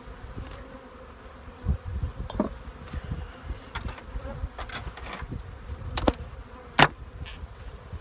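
Mass of honey bees buzzing steadily around an open hive and a swarm that is still settling, with wind rumbling on the microphone. Several sharp clicks and knocks are heard, the loudest near the end.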